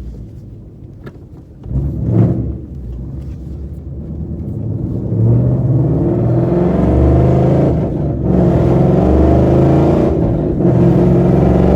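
Ford Mustang 5.0 V8 with a loud exhaust, revving briefly about two seconds in and then accelerating hard, its note climbing and dipping twice as it changes gear. The speaker says the tyres hold on the wet road, with no wheelspin.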